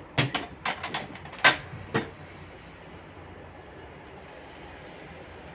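A quick run of knocks and clatters of containers and fridge items being handled and set down, the loudest about a second and a half in, then only a steady low background hum.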